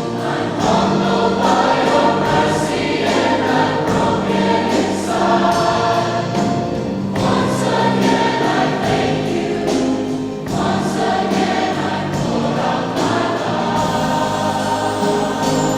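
A choir singing a Christian song with accompaniment, holding long notes.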